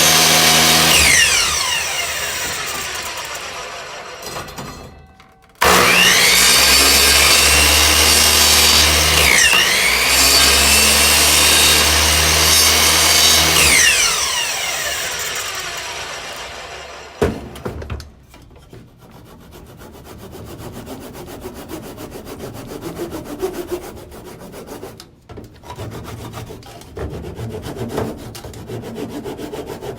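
Electric miter saw: the motor is running at the start and winds down with a falling whine. About five seconds in it starts again and runs for about eight seconds, its pitch dipping briefly as the blade bites into wood, then coasts down. In the second half there is irregular rubbing and scraping of wood.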